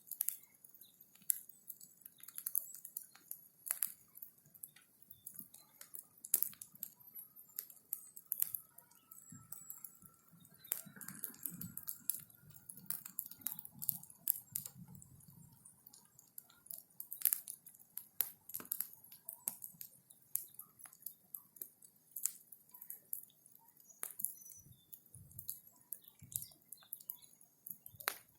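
Bonfire of cut branches crackling, with irregular sharp pops and snaps several times a second.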